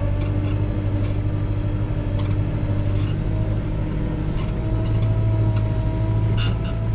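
Kubota L3940 compact tractor's diesel engine running steadily. Its note rises a little about four and a half seconds in, and a few light clicks come near the end.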